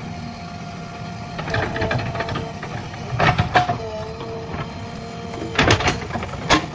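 JCB 3DX backhoe loader working: a steady engine and hydraulic whine that shifts in pitch, with three bursts of sharp metallic clanks, about a second and a half in, around three seconds in and near the end.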